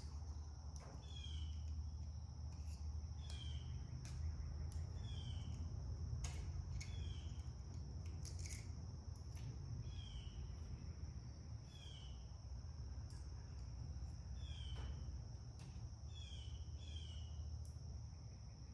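Small metal clicks and scrapes from a pick working the governor springs inside a Kubota M4050 diesel's front gear case, over a steady low hum. A bird repeats a short falling chirp every second or two, and an insect trills steadily and high.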